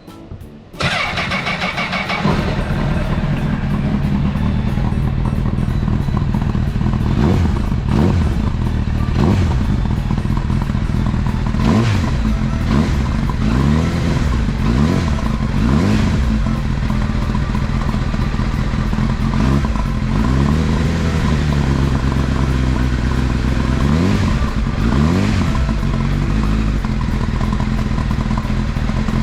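Honda CBR1000RR (SC57) inline-four engine through a Mugen aftermarket muffler, starting up about a second in and then idling, with repeated throttle blips that rise and fall in pitch.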